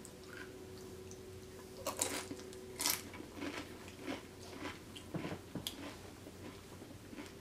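Tortilla chip dipped in queso being chewed close to the microphone: a run of irregular crunches with wet mouth sounds, the loudest about two and three seconds in.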